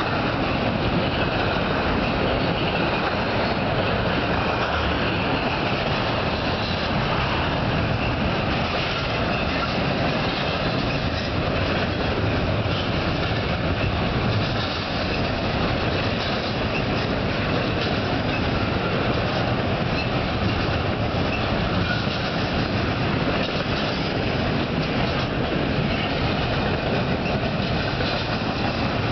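Union Pacific intermodal freight train rolling past at a steady speed: continuous wheel-on-rail noise with a clickety-clack over the rail joints.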